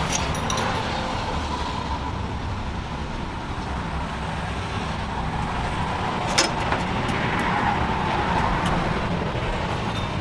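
A steady low machine rumble with a faint steady hum, and a single sharp click about six seconds in.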